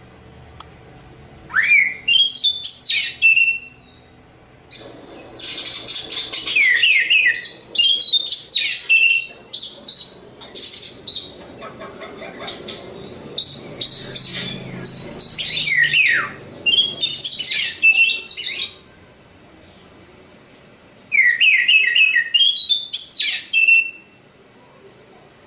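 Oriental magpie-robin singing: varied phrases of quick chirps and falling whistles, in three bouts with short pauses between them. The middle bout is long and nearly continuous, about fourteen seconds.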